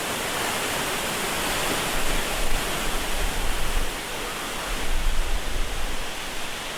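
Steady rush of a waterfall, with uneven low rumbling from about two seconds in.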